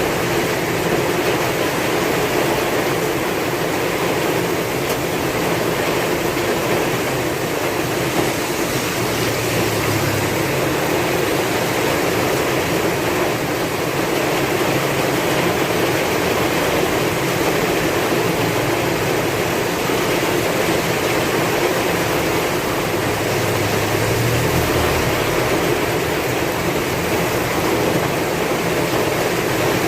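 Heavy rain falling in a steady, dense hiss with strong wind, and a low rumble that swells briefly about a third of the way in and again near the end.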